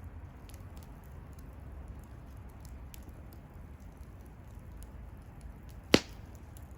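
Wood bonfire burning with a low steady rumble and faint scattered crackles, then one sharp, loud pop from the burning wood about six seconds in.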